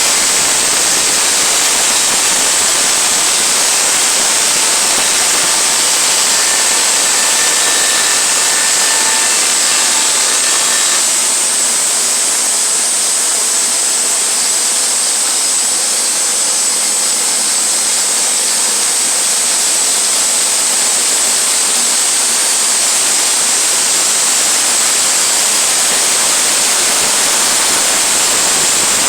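Sawmill running: a loud, steady hissing noise, with a faint whine for a few seconds that stops about a third of the way in.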